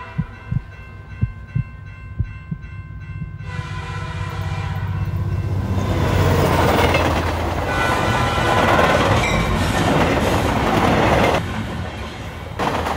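Train sound building from a low steady hum, with slow irregular thumps, into a loud rushing rumble of a moving train, with a train horn sounding in it. The roar dips briefly near the end and then returns.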